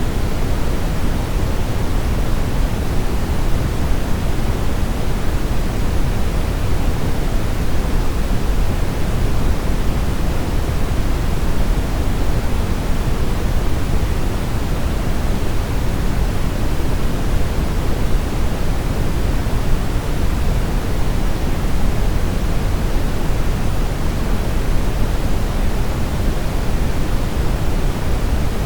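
Brown noise: a steady, deep hiss with most of its weight in the low end, unchanging throughout.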